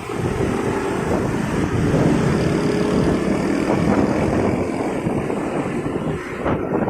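Motorcycle engine running steadily while riding in road traffic, a continuous engine drone with road noise around it.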